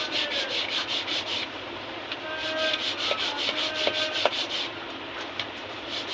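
Quick back-and-forth hand rubbing strokes, about six or seven a second, in three runs of a second or two with short pauses between, as a part of a harmonium is rubbed down or cleaned during repair.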